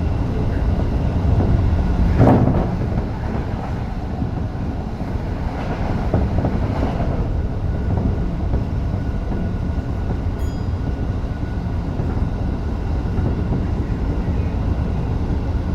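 Tokyo Metro 05 series subway train running between stations, heard from inside the front car: a steady rumble of wheels on rail, with a sharp knock about two seconds in.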